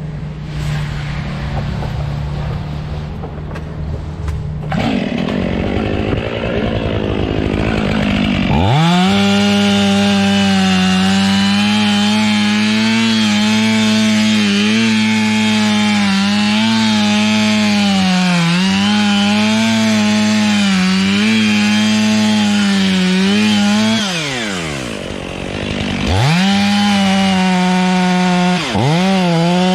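A two-stroke chainsaw is revved up to full throttle after several seconds of a lower steady engine hum. It cuts wood at high revs, its pitch wavering under load. It eases off briefly about two-thirds of the way through, then revs back up with a short dip near the end.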